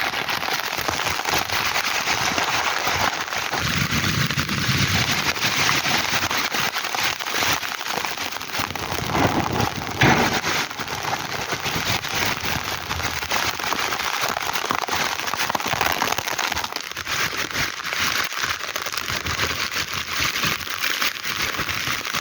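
Heavy rain pouring down, a dense, steady crackling patter of drops striking the rooftop and surfaces close to the microphone. Low rumbles swell up twice, about four seconds in and again near ten seconds in.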